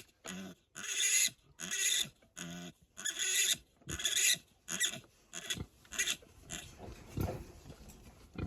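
Six-day-old piglet screaming while held, a run of shrill squeals about every half second that grow weaker and shorter near the end as it begins to calm.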